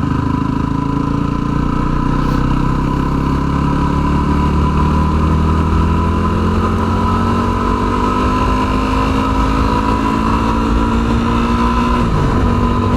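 Yamaha WR250R's single-cylinder engine running under way, its pitch climbing slowly as the bike gathers speed, then dropping sharply near the end as the rider shifts up. Wind and road noise run steadily underneath.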